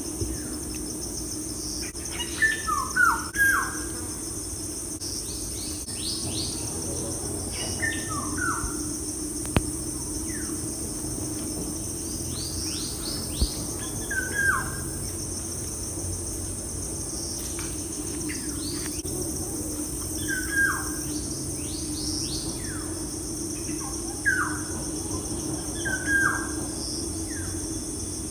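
Birds chirping in short, sharply falling calls, a few at a time every several seconds, over a steady high insect drone and a steady low hum.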